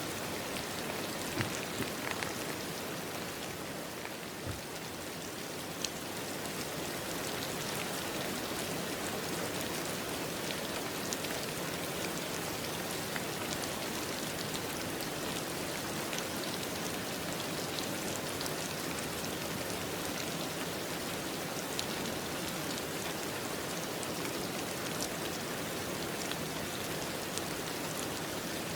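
Steady rain falling, with scattered sharp drips of individual drops.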